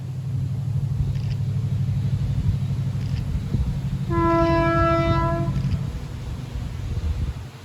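DRS Class 68 diesel locomotive passing, its V16 engine running with a rumble that builds and then fades, and one horn blast (a tone) of about a second and a half just past the middle.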